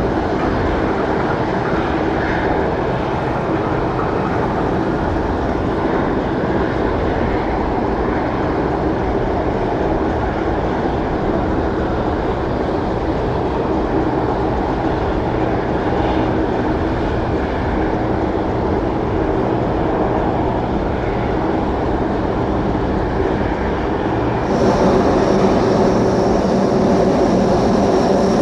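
Aircraft engines running steadily. About 24 seconds in the sound switches abruptly to a louder engine with a high steady whine over it.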